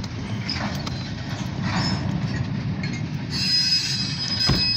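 Covered grain hopper cars rolling past with a steady low rumble. About three seconds in, a high, steady metal squeal starts from the moving cars, and a single knock comes near the end.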